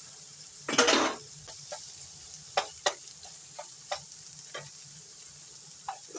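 Vegetables and garlic sizzling in oil and butter in a frying pan, with a utensil scraping the pan about a second in and then a scattering of short taps against the pan as the food is stirred.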